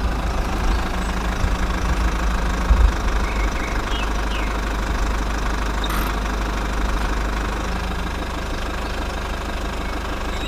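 Mini diesel engine of a DIY model tractor running steadily with a fast knocking rhythm.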